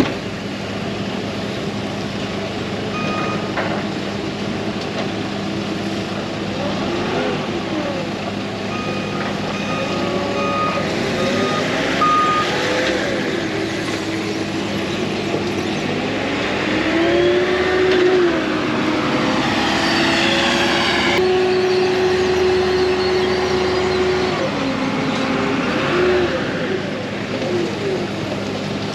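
Heavy diesel machinery running steadily, its engine revving up and down, with short backup-alarm beeps: one a few seconds in and a quick run of beeps near the middle.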